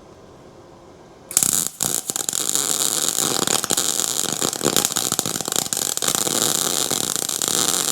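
MIG welder arc crackling steadily as steel rod is welded to angle iron, starting about a second in with a brief stutter right after. The shielding gas is turned off, so the weld comes out poor-looking.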